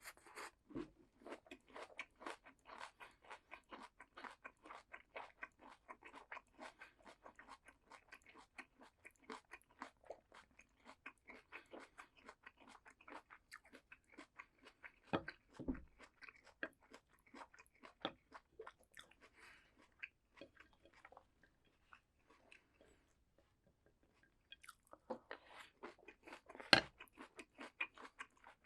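Close-miked crunching and chewing of crisp raw vegetables, in quick repeated strokes. There are loud sharp bites about halfway through and again near the end, after a brief lull.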